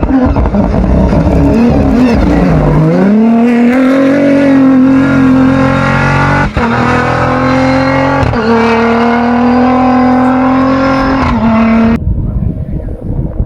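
Rally raid race car engine under hard acceleration: the revs drop about two seconds in, climb again and are held high, with quick gear changes about six and eight seconds in. Near the end it cuts abruptly to rougher engine and tyre noise.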